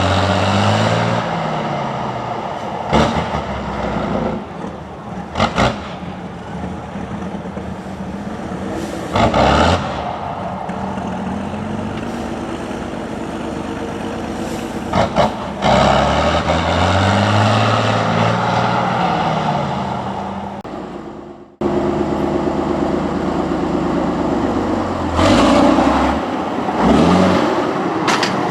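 Competition trial trucks' engines running and revving under load, rising in pitch at the start and again about two-thirds of the way through. Several short bursts of air hiss break in, and the sound cuts off abruptly and restarts past the middle.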